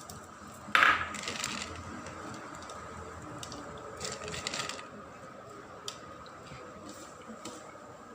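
A metal utensil clanks sharply against a metal cooking pot with a ringing tone under a second in, followed by scraping as the contents are stirred, with another stretch of scraping about four seconds in and a small click near the end.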